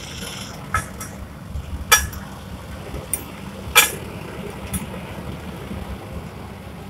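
Gas melting furnace burner running with a steady low rumble, while a few sharp metallic clinks ring out, the loudest about two and four seconds in.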